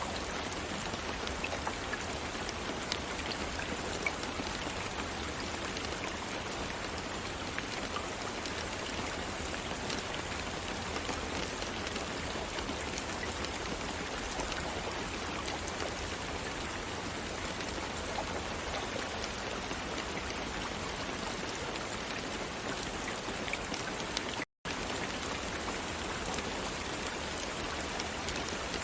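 Steady rain falling: an even hiss of rain with scattered individual drops ticking. Late on the sound cuts out to silence for a split second and resumes.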